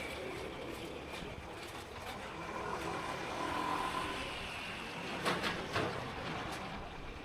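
Street traffic heard while riding a motorbike: a steady noise of engines and tyres, with two sharp clicks about half a second apart a little past five seconds in.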